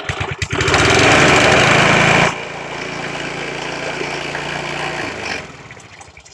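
The small 3 hp engine of a vintage Craftsman self-propelled reel mower, just started cold on choke. It runs fast and loud with a brief stumble, drops to a lower, steadier idle about two seconds in, then winds down and stops near the end.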